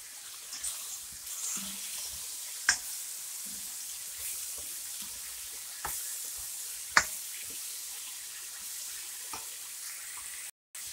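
Sliced bitter melon sizzling in a hot wok with tomato and garlic, stirred with a spatula that knocks sharply against the pan three times. The sound cuts out briefly near the end.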